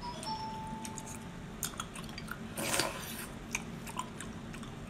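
Close-up mouth sounds of a person chewing seafood, with scattered small wet clicks. A brief louder noise comes a little past halfway, and a faint thin tone is heard for about a second near the start.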